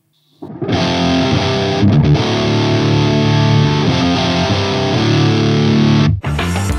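Distorted electric guitar played through an Amonito tube preamp with a 12AX7/12AU7 circuit: a riff of held, overdriven chords. It starts about half a second in and breaks off near the end, where a choppier part begins.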